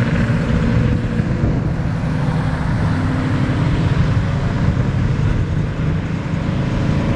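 Classic cars driving past in a car cruise, their engines running with a steady low drone and several held tones.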